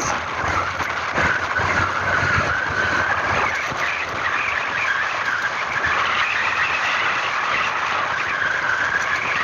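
Steady vehicle travel noise from a moving vehicle on a road, with engine and road noise and a wavering higher hum running through it.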